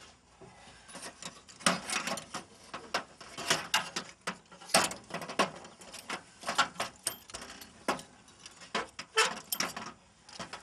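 Irregular metallic clicks, clanks and rattles as a 1995 Saturn's power-window regulator mechanism is handled and worked into the door shell.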